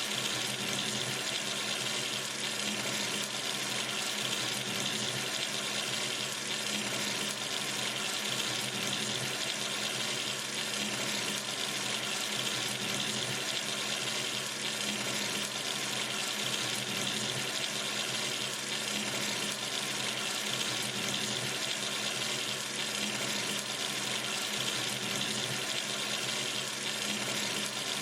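Sink tap running steadily, water splashing into the basin in an even, unbroken rush.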